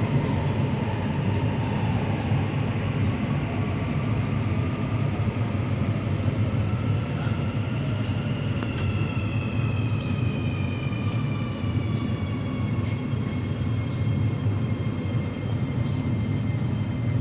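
AS-14 metro train heard from inside the car while running: a steady low rumble of wheels on track, with the motors' whine sliding in pitch. A higher tone falls slowly through the second half.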